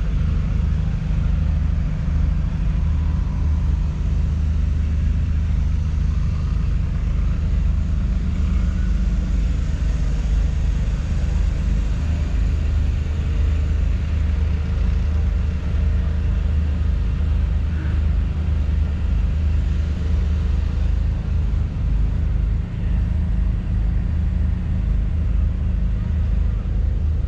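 Massey Ferguson 8S.305's 7.4-litre six-cylinder diesel engine running steadily, a low even rumble.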